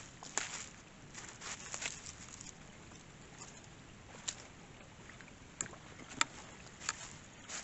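Irregular sharp clicks and crunches, loudest a little after six seconds in, over a steady outdoor hiss.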